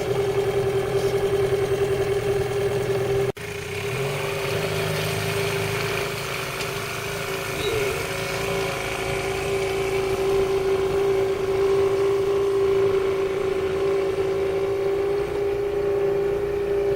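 An engine running steadily with a strong, even whine. Its sound breaks off briefly about three seconds in, and a lower note rises just after.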